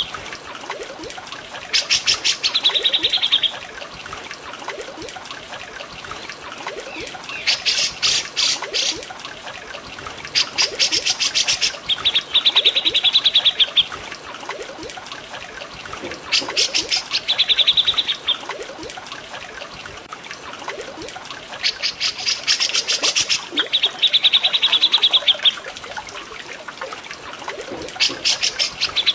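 Cucak jenggot and cililin song recording over steadily trickling water: a bird repeats a phrase of rapid loud notes ending in a buzzy trill, about every five seconds.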